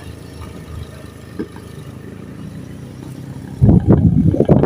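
A steady low rumble of a vehicle engine, then about three and a half seconds in a much louder, rough low rumble.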